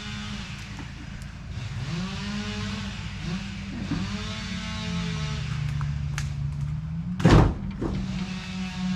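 An engine running, its speed dipping and rising, with one loud sharp crack or thump about seven seconds in.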